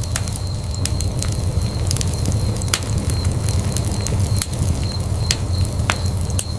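Wood fire burning in a fireplace: a steady low rumble of flames with scattered sharp crackles and pops, about one or two a second.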